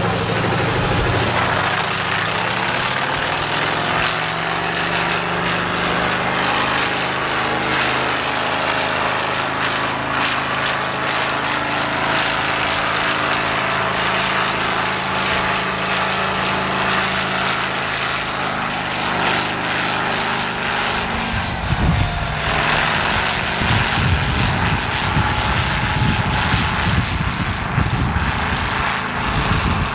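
Pulling tractor's engine running steadily, then from about twenty-one seconds in a deeper, rougher rumble as it comes up to full power.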